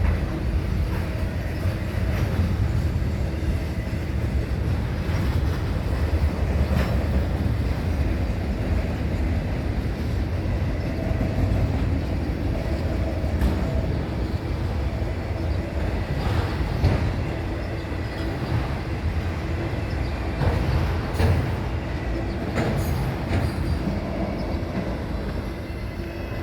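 Freight train rolling past with a steady low rumble of wheels on rail, broken by scattered sharp clicks and a faint high wheel squeal at times.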